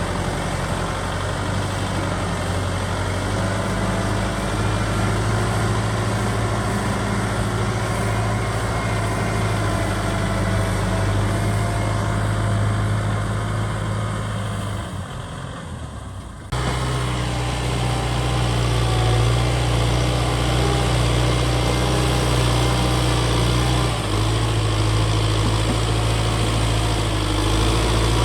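Kubota ZT 155 DI single-cylinder diesel engine running steadily. About two-thirds of the way through it fades briefly, then comes back suddenly at full strength.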